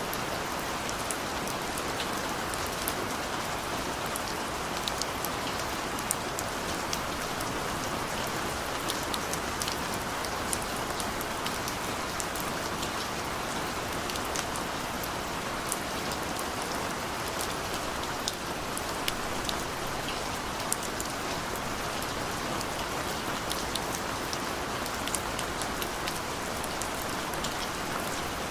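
Steady rain falling, with a constant hiss and scattered sharp drop ticks on a hard surface.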